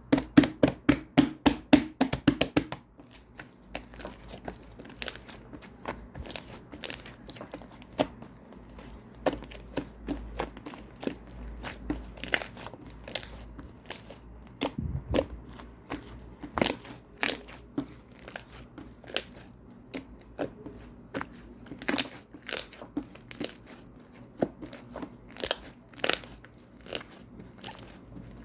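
Crinkly material being handled and torn: a fast run of sharp clicks in the first three seconds, then irregular crackles and snaps.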